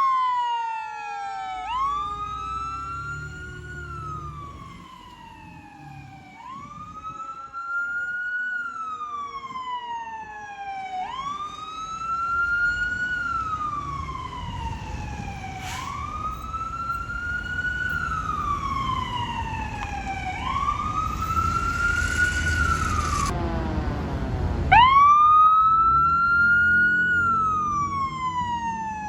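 Emergency vehicle siren on a wail, each cycle rising quickly and falling slowly about every four to five seconds, over the rumble of the vehicle's engine. Near the end a short noisy rush with a quick rapid warble comes in, and the wail comes back at its loudest.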